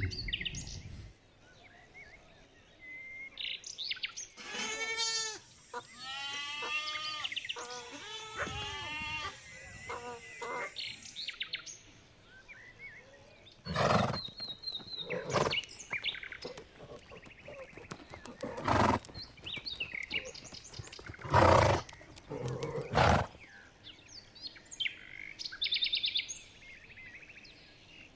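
Animal calls: a run of rapid, chirping calls with arching pitch, then five short, loud calls spaced a second or more apart, and faint chirps near the end.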